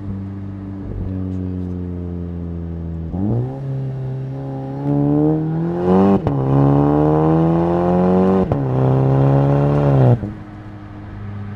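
2019 Volkswagen Jetta GLI's turbocharged 2.0-litre four-cylinder, heard through a Neuspeed stainless cat-back exhaust, making a full-throttle pull. It starts about 3 s in and the engine note rises steadily. Two quick DSG upshifts break it sharply and drop the pitch, at about 6 and 8.5 seconds. Near 10 seconds the throttle is lifted and the sound falls back to a steady low cruising drone.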